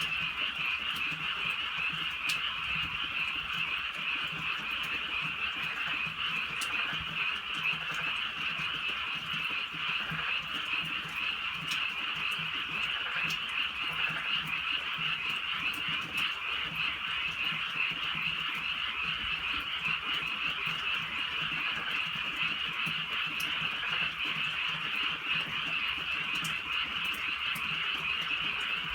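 A dense, steady chorus of many frogs calling at night, with faint scattered ticks of light drizzle.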